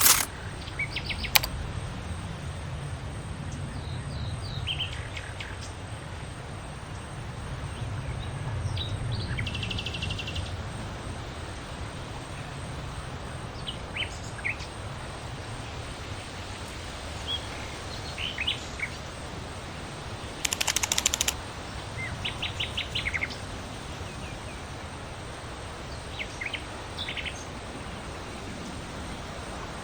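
Small birds chirping in short, scattered high calls, with a couple of quick rattling runs, over a steady low background rumble.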